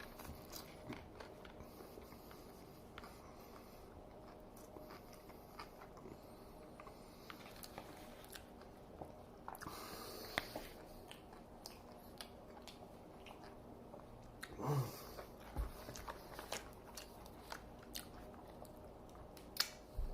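Close-up biting and chewing of a chicken sandwich, with many small crunches and wet crackles, some of them from a pickle. About fifteen seconds in there is a short low hum from the eater's closed mouth.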